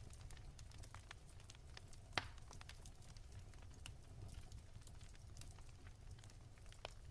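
Wood fire crackling softly: scattered small pops and snaps of burning firewood, with one louder pop about two seconds in, over a steady low rumble.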